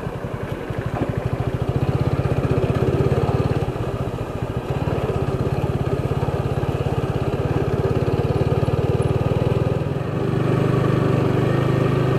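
TVS Apache RTR 200 4V's single-cylinder engine running while the motorcycle is ridden, revs rising and falling: the note dips about four seconds in and changes again about ten seconds in.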